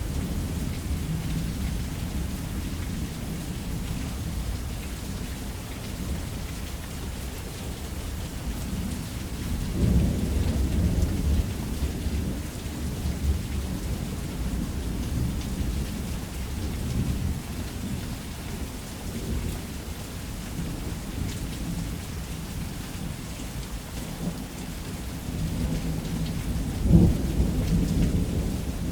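Steady heavy rain with continuous low rumbling thunder, swelling into a louder roll about ten seconds in and a sharp crack of thunder near the end.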